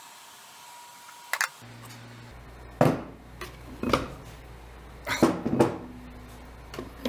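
A handful of sharp knocks and clunks, hard objects being picked up and set down on a workbench, over a low steady hum that starts after a click about a second and a half in.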